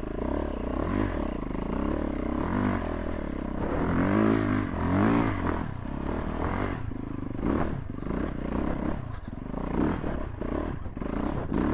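Yamaha YZ450F's 450 cc four-stroke single-cylinder engine running, its pitch rising and falling several times as the throttle is opened and closed.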